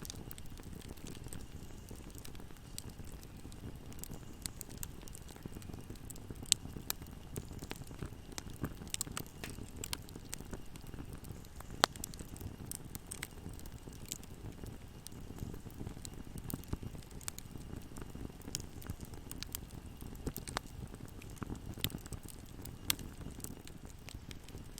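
Wood fire burning in a fireplace: a steady low rumble of flames with frequent irregular crackles and pops, two sharper pops standing out about six and twelve seconds in.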